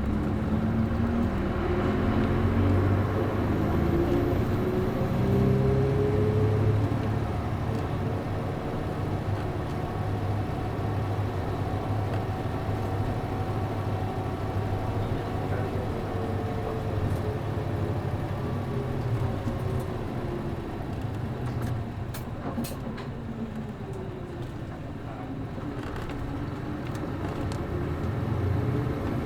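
City bus MD92TJ diesel engine heard on board, pulling away with its pitch climbing in steps through the gears of its five-speed gearbox, then running steadily. Near the end it eases off and drops in pitch, then picks up again, with a few light rattling clicks.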